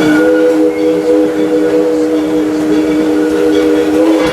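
Steam locomotive whistle blowing one long steady blast, several tones sounding together as a chord, cutting off near the end.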